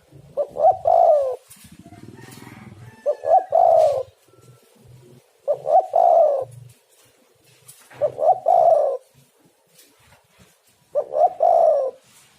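Spotted dove (tekukur) cooing: five phrases about every two and a half to three seconds, each of two or three short notes ending in a longer, falling coo.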